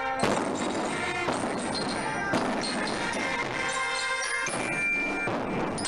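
Marching band music: sustained wind-instrument chords over drum strikes, with the sharpest strikes near the start and about two seconds in.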